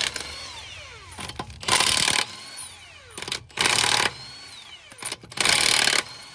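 Impact wrench run in four short bursts about two seconds apart, each followed by a falling whine as the motor spins down, typical of loosening or running down suspension or wheel bolts.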